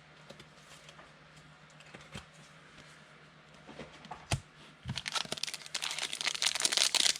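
A foil trading-card pack wrapper being torn open and crinkled by hand, starting after a few quiet seconds of small handling clicks and a single sharp click, and getting louder toward the end.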